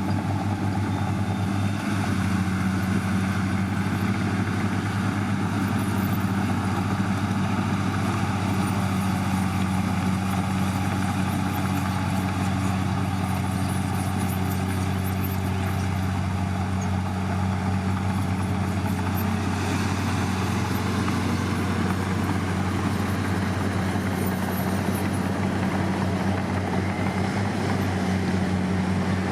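Heavy diesel earthmoving engine running steadily under load, a continuous low drone with no revving or pauses.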